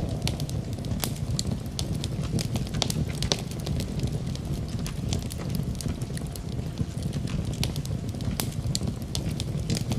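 Wood fire crackling in a fireplace: scattered sharp pops and snaps over a steady low rush of wind.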